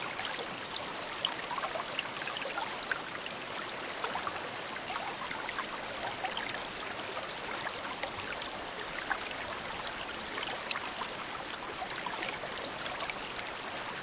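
Steady water ambience: an even hiss with many small clicks and crackles scattered through it.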